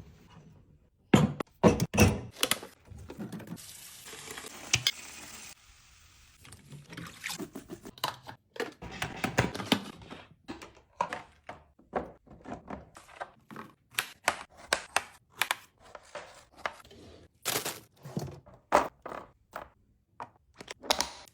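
Kitchen handling sounds while restocking a fridge: a long series of clunks and taps as containers and food are picked up and set down. About three to five seconds in there is a short run of steady hiss that sounds like a running tap.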